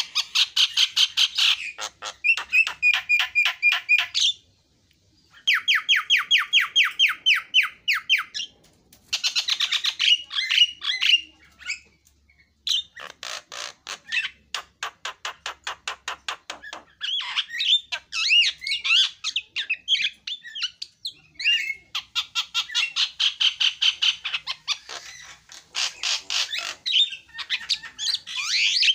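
Javan myna singing: phrases of fast, harsh chattering notes and buzzy trills, broken by short pauses.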